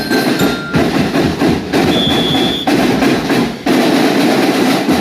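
Marching band percussion, drums and lyres, playing a loud march with a steady beat that surges about once a second, and a brief high held tone about two seconds in.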